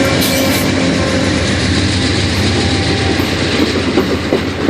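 Amtrak passenger train rolling past close by behind its GE P42DC diesel locomotives, a steady rumble with steel wheels clattering on the rails.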